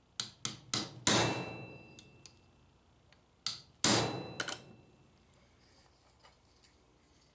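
Metal tapping on a stuck part of a Dixie Narco vending machine's rotor drive, struck to knock it loose: about four quick taps, a pause of two seconds, then about four more, the hardest blows ringing briefly.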